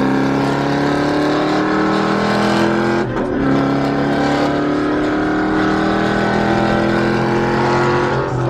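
Car engine accelerating hard, its pitch climbing steadily. About three seconds in it drops for an upshift, then climbs again through the next gear.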